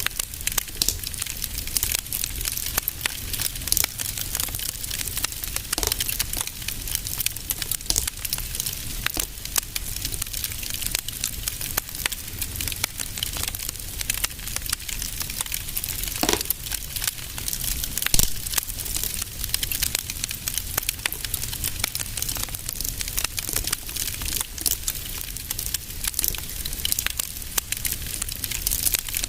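Fireplace wood fire crackling steadily with many small pops and a low rumble, and a couple of louder pops a little past the middle.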